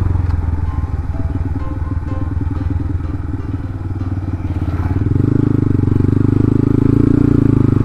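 Yamaha Byson FZ16's single-cylinder engine, running on a Tiger carburettor, as the motorcycle eases off the throttle and slows. It pulls steadier and louder from about five seconds in.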